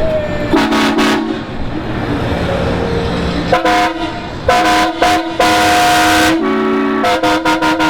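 Vehicle horns honking, at least two horns of different pitch: a brief low blast, then a string of short toots, one long blast of about a second, and a quick run of toots near the end.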